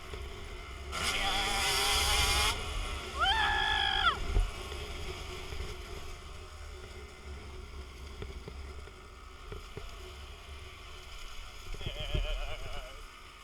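Wind buffeting the microphone as a steady deep rumble, with dirt bike engines revving; the loudest stretch comes in the first four seconds, with a revving engine rising in pitch near four seconds.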